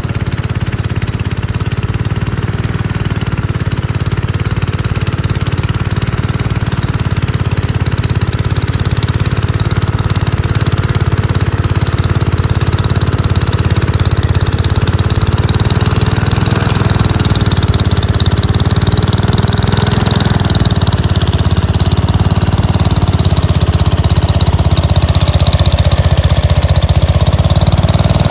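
Gravely Commercial 10A walk-behind tractor's engine running steadily with its snowblower attachment. The pitch wavers a little, and the sound grows slightly louder toward the end.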